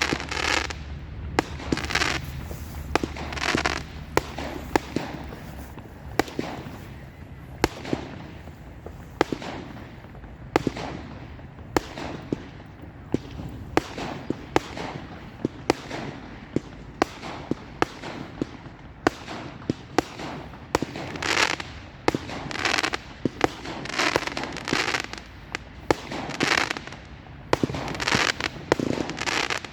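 Fireworks display: a run of sharp bangs at irregular intervals, between short hissing bursts, coming thicker towards the end.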